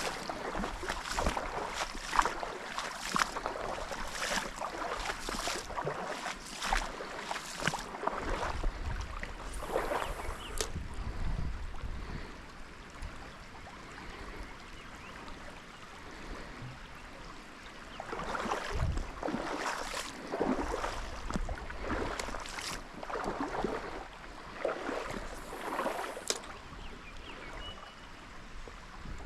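Water sloshing in repeated swishes, as of legs wading through a trout stream, with a quieter pause midway, over the stream's steady flow and some wind rumble on the microphone.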